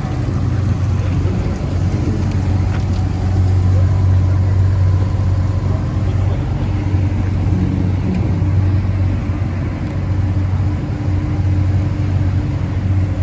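Supercar engine idling steadily, a low even drone.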